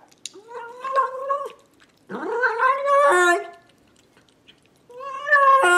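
Domestic cat giving three long, drawn-out meows about a second apart, each rising in pitch at the start and dropping at the end.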